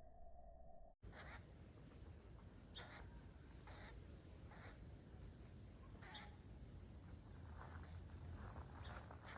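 Juvenile pileated woodpecker giving faint, short buzzy calls, repeated irregularly every second or so, over a steady high-pitched insect drone.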